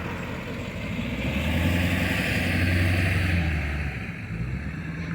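A motor vehicle driving past, its engine hum and tyre hiss swelling and then fading away.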